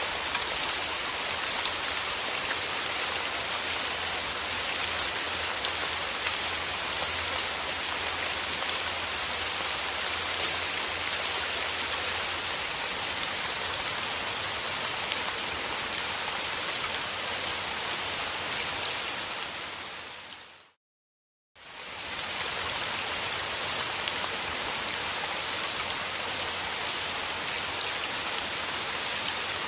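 Steady rain falling, with many small drop ticks through an even hiss. About two-thirds of the way through it fades out to silence for about a second, then fades back in.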